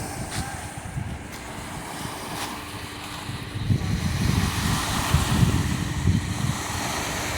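Sea surf washing onto the shore, with wind rumbling on the microphone. The wash grows louder a little past halfway.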